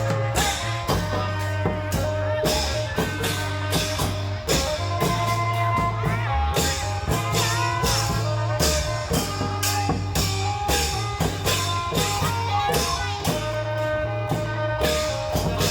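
Isan klong yao band music: a dense, steady beat of drums with a low bass line and an electric plucked lead melody that bends its notes.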